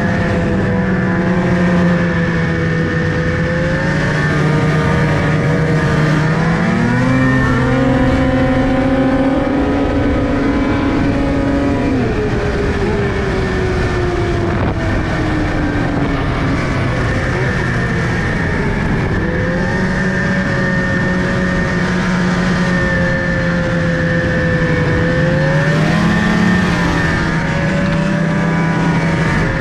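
Motor vehicle engine running steadily under way, its pitch rising about seven seconds in, sliding down again from about twelve seconds, then swelling briefly twice more later on.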